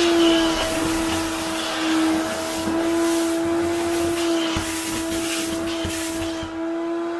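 Wet vacuum cleaner running, with a steady motor whine under a loud suction hiss that keeps swelling and easing.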